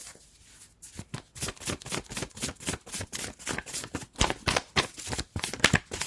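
Tarot cards being shuffled by hand, a rapid run of soft clicks and riffles that starts about a second in.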